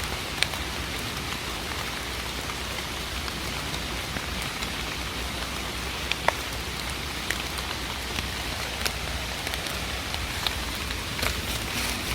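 Steady rain falling, an even hiss with scattered sharp drop ticks now and then.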